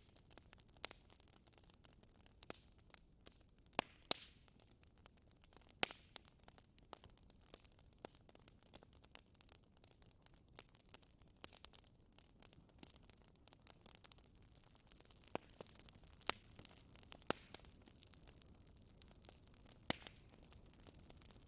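Wood fire crackling in a fireplace: irregular sharp pops and snaps over a soft, low hiss of burning.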